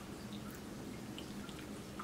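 Close-miked mouth sounds of someone chewing soft food (an enchilada): small wet clicks and smacks, scattered and irregular, over a faint steady low hum.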